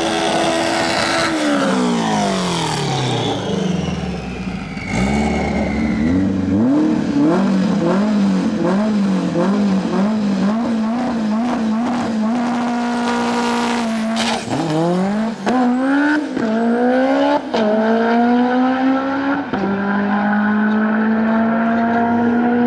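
Drag race car engines at full volume. Early on one engine's pitch falls steadily as it backs off. Then an engine revs up and down repeatedly. Near the end a car accelerates hard, its pitch dropping suddenly at two gear changes and climbing again after each.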